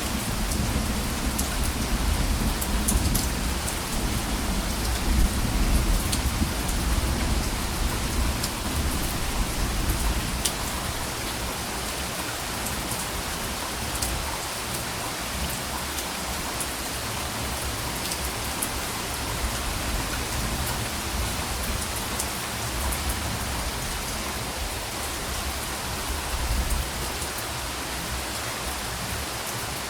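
Steady rain falling, an even hiss with scattered drop ticks. A low thunder rumble runs under it for about the first ten seconds and fades away, with a fainter swell near the end.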